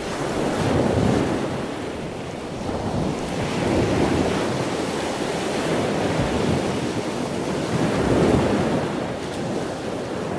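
Ocean surf: waves breaking and washing in, rising and falling in slow swells every few seconds.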